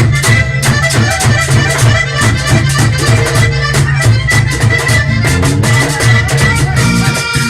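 Live vallenato music with no singing: accordion playing the melody over a steady, fast percussion rhythm and a strong bass line.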